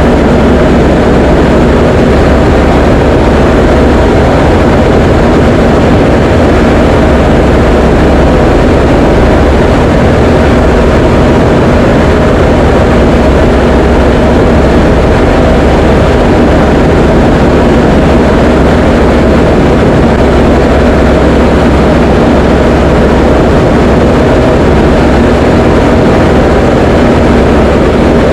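Diamond DA20 light aircraft's piston engine and propeller droning steadily in flight: a loud, even drone with a fixed low tone that does not change.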